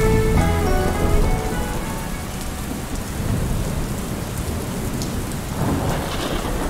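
Steady rain with a low rumble of thunder that swells near the end; the last notes of background music die away in the first second or so.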